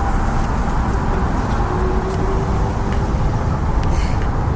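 Steady road and engine noise inside a moving car's cabin: a constant low rumble with a hiss of tyre and wind noise.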